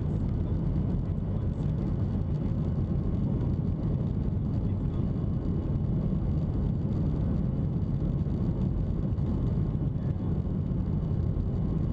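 Steady low rumble of a Boeing 737-800 heard from inside the passenger cabin: the CFM56-7B jet engines and the airflow around the fuselage, holding an even level throughout.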